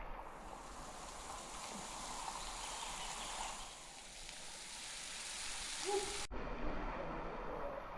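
Small waterfall splashing steadily down a rock face into a pool, a continuous rain-like hiss of falling water, with a sudden brief break about six seconds in.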